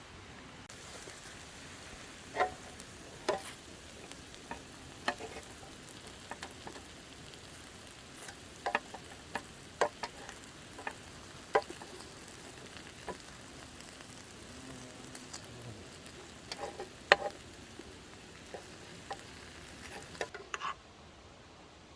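Wood campfire crackling: a steady hiss broken by irregular sharp pops, with the loudest pop about three-quarters of the way through. The hiss cuts off abruptly near the end.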